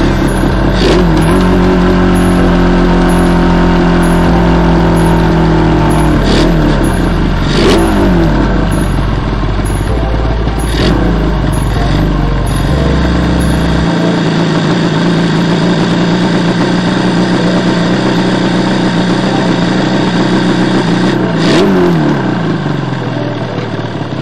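Yamaha R1-Z 250 cc two-stroke twin engine in a mini-bike, running while riding at low speed, its pitch dropping and climbing again about five times as the rider shifts and eases off.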